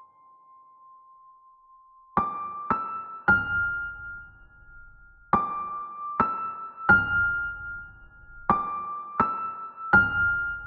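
Soft background piano music. A held note fades out, then a slow three-note rising figure is played three times, each note ringing on.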